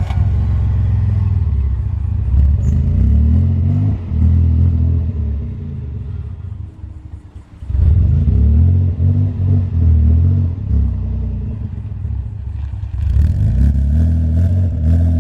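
Car engine just started, revving up and down repeatedly. It drops back for a moment about seven seconds in, then revs again.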